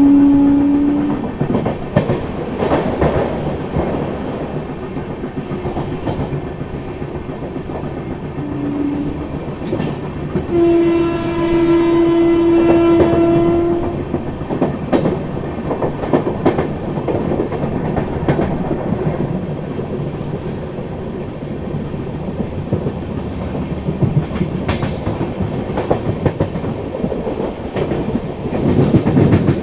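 Express passenger train running, heard from an open coach door: continuous rumble of wheels on rail with irregular clacks over joints. The train horn sounds three times: once ending about a second in, a short toot about 9 s in, and a longer, stronger blast from about 11 to 14 s in.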